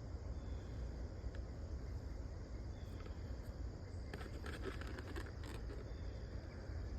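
Insects chirping faintly over a steady low rumble, with a few soft clicks about four to five and a half seconds in.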